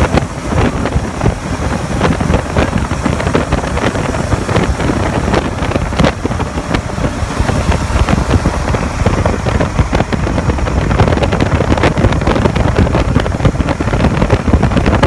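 Heavy wind rush on the microphone of a moving motorcycle, with vehicle noise beneath; it cuts off suddenly at the end.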